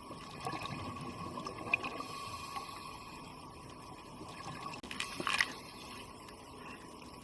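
Underwater water sound: bubbling in two bursts, about half a second in and again louder about five seconds in, over a faint steady hum.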